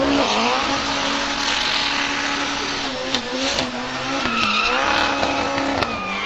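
A drift car's engine held at high revs, with a few brief dips, while its tyres squeal and hiss in a sustained slide.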